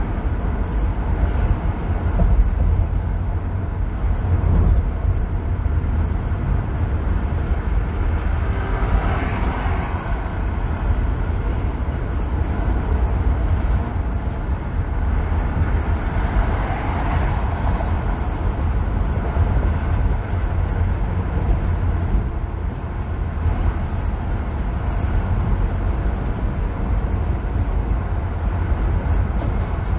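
A car driving on a freeway: steady road and tyre noise with a deep, constant rumble. The sound swells briefly twice, about nine and seventeen seconds in.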